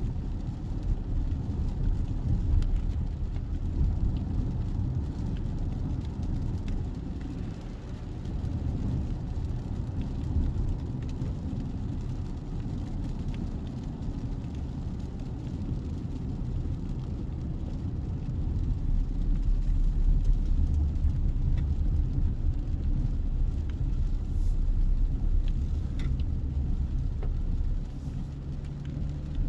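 Mazda CX-60's 3.3-litre diesel running, heard as a steady low rumble that rises and falls a little, with no distinct tone standing out.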